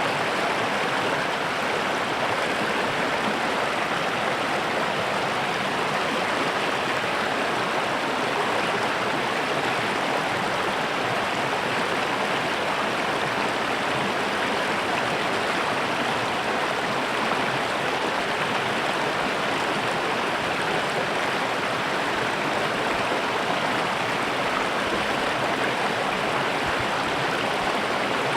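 A small stream flowing steadily over rocks, a constant rushing babble of water.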